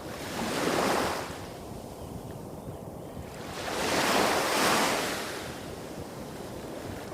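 Small waves breaking on a beach, two washes about three seconds apart, the second longer, over a steady low rumble of surf hitting rocks farther along the shore.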